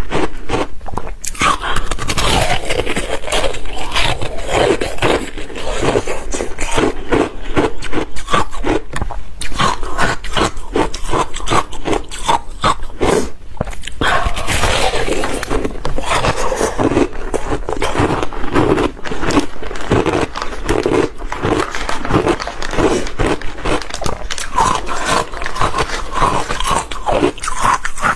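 Ice being bitten and chewed close to the microphone: a dense, continuous run of sharp crunches and cracks, with a brief lull about 13 seconds in.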